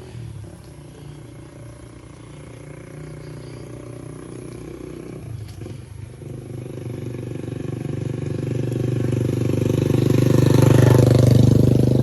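A motor vehicle's engine approaching and passing close by, growing steadily louder through the second half and loudest near the end.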